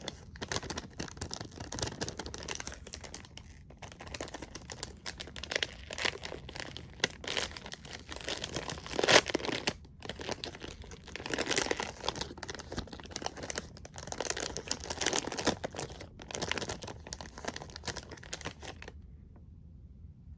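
Packaging being handled close to the microphone: continuous crinkling and tearing, with louder stretches, that stops abruptly about nineteen seconds in.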